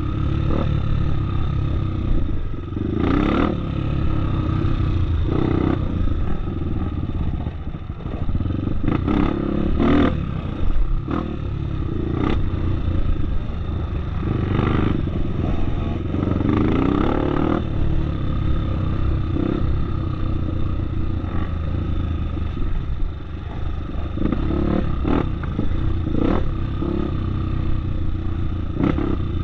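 Off-road trail motorcycle running steadily while being ridden over rough ground, with scattered knocks and clatter from bumps.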